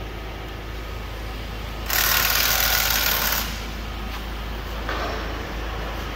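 Peugeot 508 1.6 diesel engine idling steadily, with the engine judged in good condition. About two seconds in, a loud hiss cuts in for about a second and a half.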